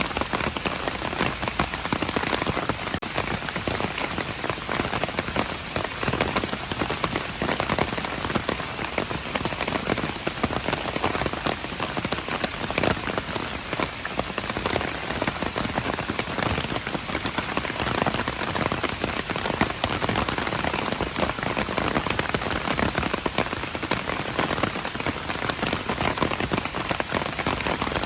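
Steady rain falling: a dense, even patter of countless drops that holds at one level.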